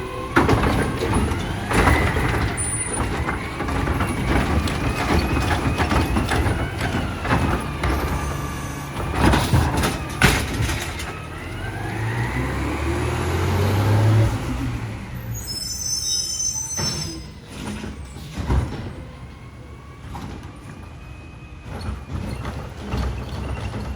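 Automated side-loader garbage truck working: the engine revs to drive the hydraulics, with a whine rising and falling and several loud metallic clanks as the arm and cart move, building to a low rumble about two thirds of the way through. A short high hiss follows, and the truck then runs more quietly.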